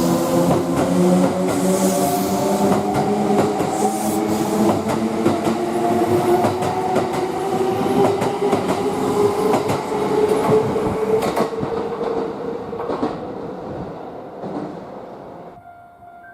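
Kintetsu limited express electric train running through the station: wheels clicking over the rail joints, with a motor whine rising slowly in pitch. The sound fades over the last few seconds, then cuts off suddenly near the end.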